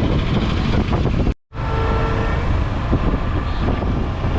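Motorcycle riding noise: wind rushing over the microphone with the engine and road rumble underneath, steady and loud. It cuts out for a moment about a second and a half in, then carries on.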